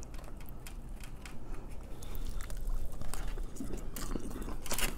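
A person chewing a mouthful of sushi, picked up close by a clip-on microphone: soft, wet mouth sounds with many small irregular clicks.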